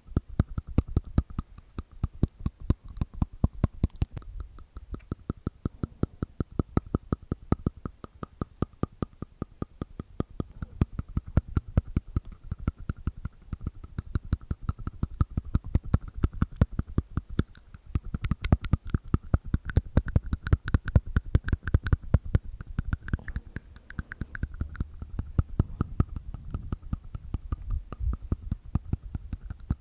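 Close-miked ASMR mouth sounds: wet tongue and teeth clicks inside the mouth, a rapid unbroken run of sharp clicks, several a second.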